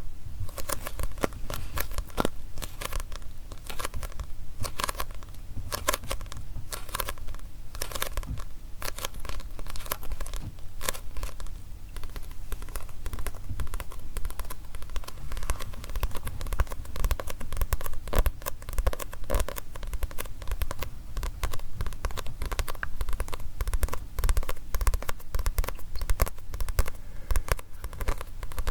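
Fingers tapping and scratching on a manga book, its paper cover and pages, close to the microphone: a continuous run of quick, irregular taps and scrapes.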